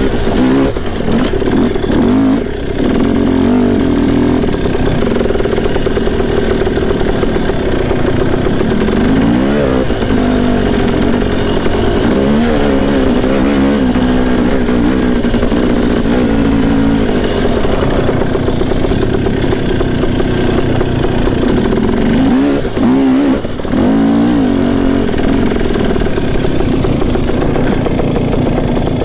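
Dirt bike engine running under load on a singletrack trail, its pitch repeatedly rising and falling as the throttle is worked, with short lifts off the throttle.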